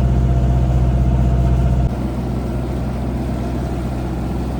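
Sailboat's auxiliary engine running steadily under way with a low, even drone. About two seconds in it drops suddenly to a lower, rougher-sounding level.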